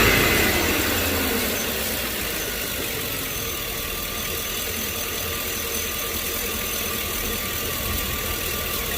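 A 2005 Chevy Tahoe's V8 engine eases down over the first couple of seconds, then idles steadily. The idle is smooth, with no more shaking, now that a torn vacuum hose has been replaced: the vacuum leak is fixed.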